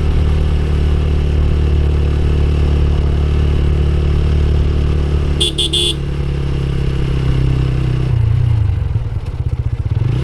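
Motorcycle engine running steadily under way, with a short horn beep about halfway through. Near the end the engine note drops as the bike slows, then picks up again.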